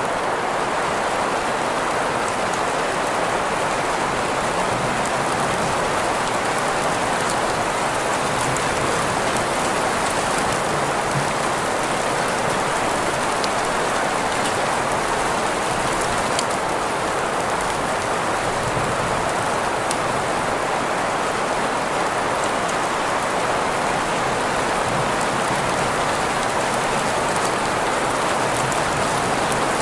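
Steady rain mixed with green noise: an even, unbroken hiss weighted to the middle of the range, with faint scattered droplet ticks.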